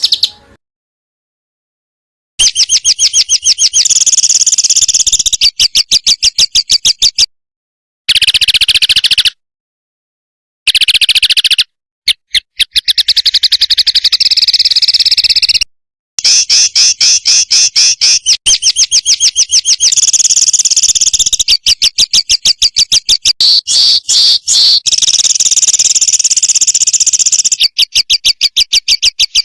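Songbird song from a looped training recording: fast trains of short, high chirping notes, several a second, played loud and broken several times by abrupt cuts to dead silence.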